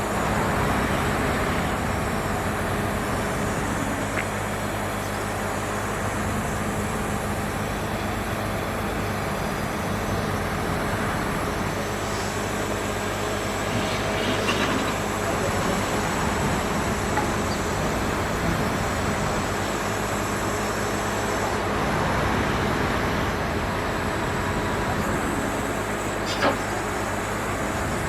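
Steady outdoor street noise: a constant rumble of traffic or machinery, with a single sharp knock near the end.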